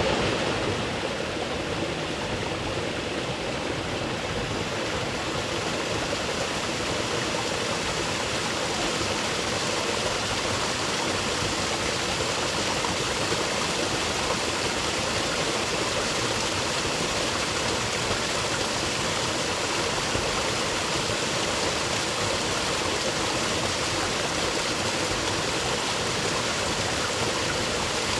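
Rainforest creek: running water flowing steadily over rocks.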